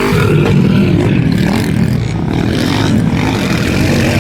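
Underbone motorcycles racing on a motocross track, their small engines revving hard and rising and falling in pitch as they accelerate.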